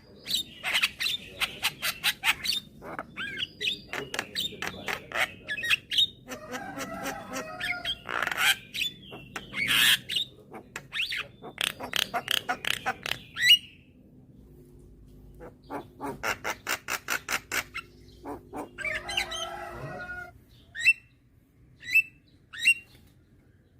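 Javan myna (jalak kebo) singing: dense runs of harsh chattering notes, rattling clicks and whistles. After a pause a little past the middle comes a fast rattle of clicks, and near the end a few short rising whistles.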